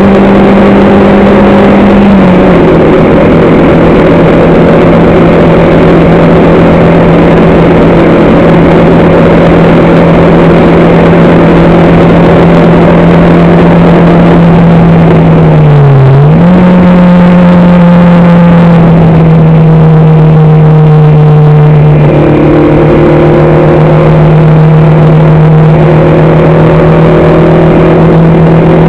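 A race vehicle's engine heard on board, running loud at a steady high pitch. The pitch steps down slightly about two seconds in, dips briefly and comes back around sixteen seconds in, then sags slowly.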